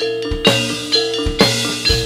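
Javanese gamelan-style music: struck metallophone notes ringing and overlapping above a beat of low drum strokes.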